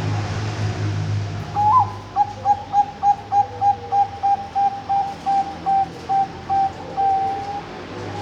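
Bangkok-strain zebra dove (perkutut) singing: a rising opening note, then a quick run of about fifteen short coos, about three a second, ending in one longer drawn-out coo, over a low steady hum.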